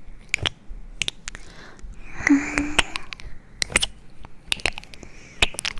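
Close-miked ASMR-style trigger sounds: a run of sharp clicks and crunches, with one short steady tone about two seconds in.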